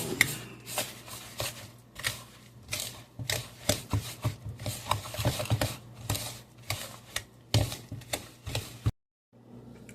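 Peanut butter, sugar and egg being stirred by hand in a bowl: a utensil scraping and clicking against the bowl in quick, irregular strokes, stopping suddenly near the end.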